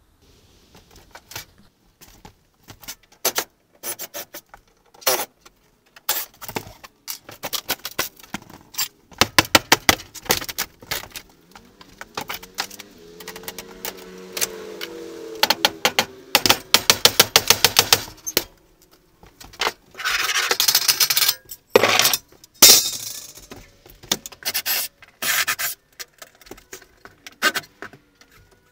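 Demolition work on camper cabinetry and panelling: a steady string of knocks and clicks with rubbing and scraping of wood. Near the middle a squeal rises and falls, followed by a fast run of clicks, and a harsh scraping hiss a little later.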